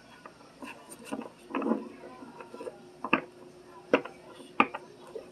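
Tarot cards being handled on a table: a scatter of light clicks and sharper taps, the three sharpest about three, four and four and a half seconds in, over a faint steady hum.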